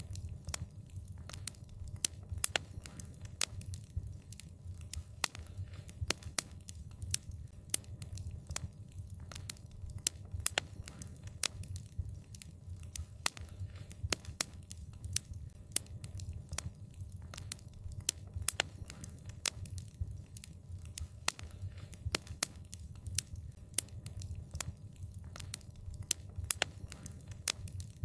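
Wood fire burning and crackling, with frequent sharp, irregular pops and snaps over a steady low rumble.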